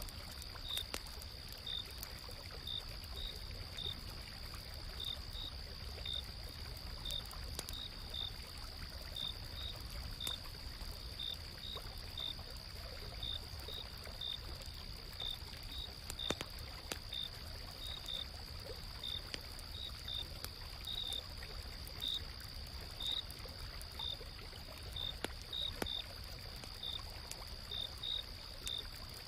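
Autumn night insects: one continuous high trill and short cricket chirps repeating unevenly, a little under two a second, over the steady rush of a flowing stream, with occasional sharp crackles from a campfire.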